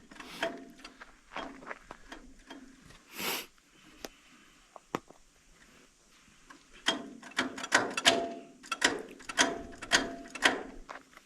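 Metallic clicks and clanks on a John Deere 60 tractor as a start is tried and the engine fails to turn over: a few scattered knocks, then a quick run of sharp, briefly ringing clanks from about seven seconds in until near the end. No engine cranking is heard.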